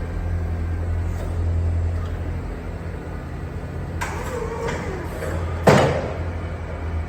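Hyster N40FR electric reach truck running with a steady low hum. About four seconds in a brief wavering tone rises over it, and a sharp clunk sounds near six seconds.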